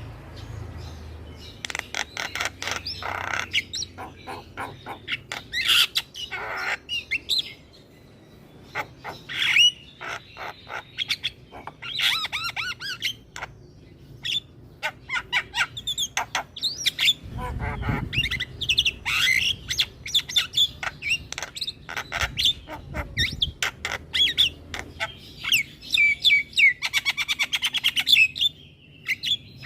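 Javan myna (jalak kebo) singing on and on: a busy mix of sharp clicks, short chirps and harsh squawks, with a fast rattling run near the end.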